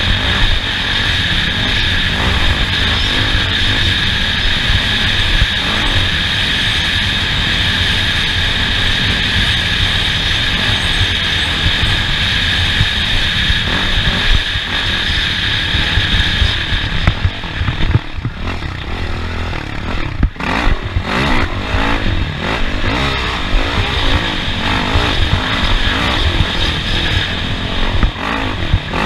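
Off-road race vehicle running hard over a rough course, engine noise mixed with rattling and knocks. A steady high whine runs through the first part, then drops away about two-thirds of the way in, and the sound turns choppier with more jolts.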